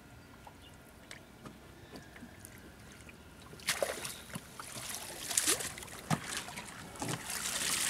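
Water splashing and trickling, with small knocks, beside a small boat. It is quiet at first, then turns loud and busy about halfway in.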